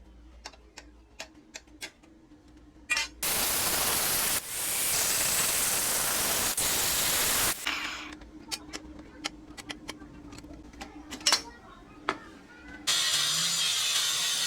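Workshop work sounds: scattered light taps and clicks, then a loud hiss lasting about four seconds, more taps, and near the end a steady scraping noise starting.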